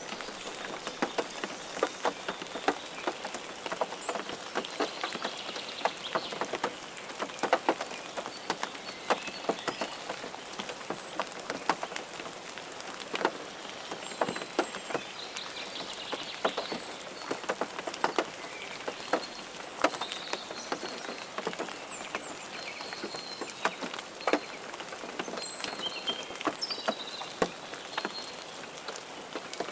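Rain falling steadily, a dense patter with many individual drops striking sharply and irregularly.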